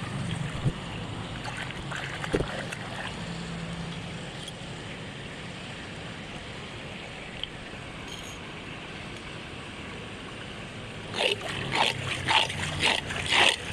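Floodwater rushing and gurgling steadily into a cleared storm drain, with a quick run of splashes near the end.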